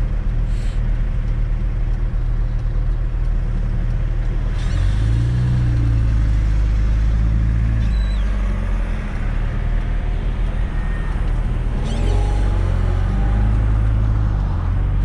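Fiat Coupe 2.0 16V Turbo engine driving under way, its pitch rising and dropping as it accelerates and changes gear, with a brief whoosh about four and a half seconds in and another near twelve seconds.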